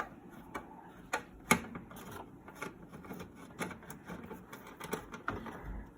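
Irregular small clicks and taps of hands and a tool working a ground wire loose from a washing machine's control panel.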